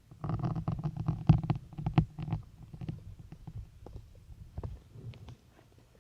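Syringe needles being pushed into a soft foam sponge: a dense run of crackling, squishing pops for about two seconds, then sparser small crackles.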